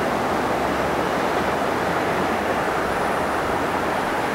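Kitakinki Tango Railway KTR8000 "Tango Explorer" diesel train approaching: a steady running noise from the train on the rails, with no distinct horn or clanks.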